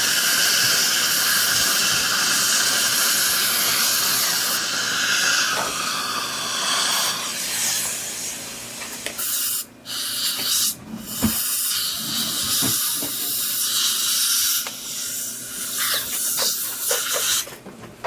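Steady loud hiss of dental chairside air and suction equipment at work in the mouth. It cuts out briefly twice about halfway through and drops away just before the end.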